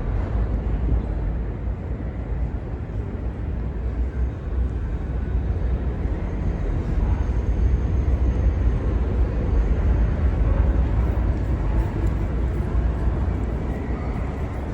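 New York City subway train running through an underground station: a steady low rumble that builds to its loudest around ten seconds in and then eases off.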